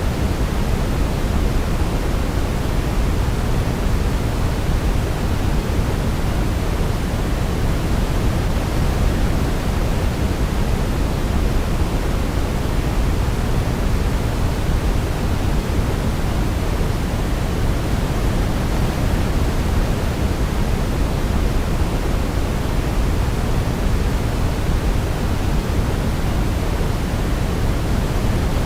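Steady sleep noise: an even hiss without melody, weighted toward the low end like pink noise, at a constant level.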